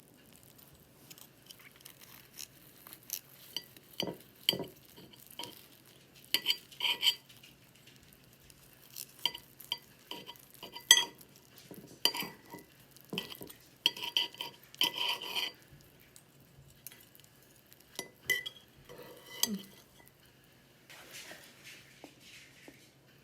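Cutlery clinking and scraping against dishes in scattered, irregular taps, each with a short ring.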